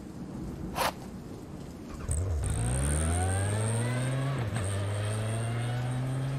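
A hiss of rain with one sharp click about a second in, then a motorcycle engine comes in, its pitch rising for about two seconds as it accelerates, then holding steady.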